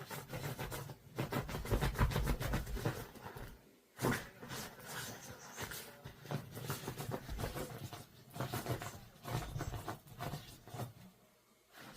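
A dog making runs of rapid small clicks and scuffs with low thuds, in bursts that pause briefly about four seconds in and again near the end.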